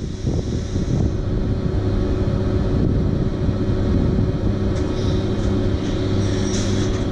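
A train at a station, its engine running with a steady low drone. Short bursts of hissing come in from about five seconds in.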